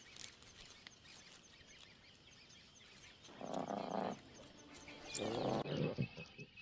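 Two calls from a lion, each under a second, the second a little longer, over a faint steady chirping of insects.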